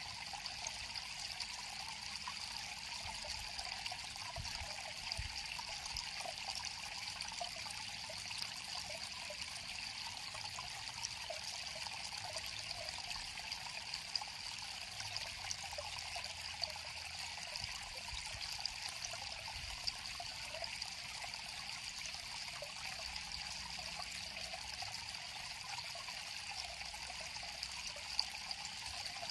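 River water flowing in a steady, even trickle, with small splashes ticking through it.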